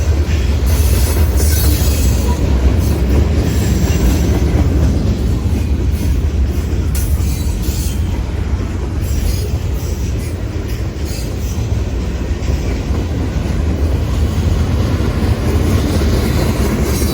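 Diesel locomotives on the rails passing at close range: a loud, steady low engine rumble with scattered sharp clicks and squeals from the wheels.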